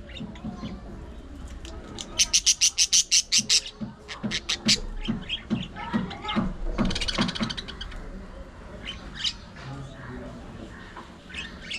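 Budgerigars chattering and chirping. About two seconds in there is a quick run of about ten loud, sharp chirps, and a little past the middle a brief rapid, buzzy chatter.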